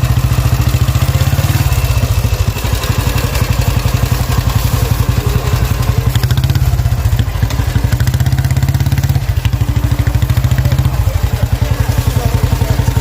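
1948 Royal Enfield motorcycle engine idling with a rapid, even beat; its pitch shifts slightly a few times.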